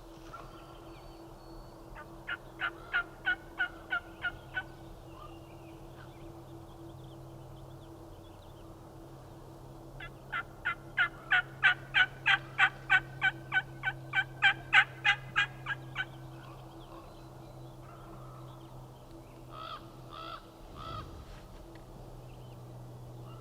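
Turkey yelping: a run of about nine evenly spaced yelps, then a longer run of about twenty at roughly three a second, with three shorter notes near the end.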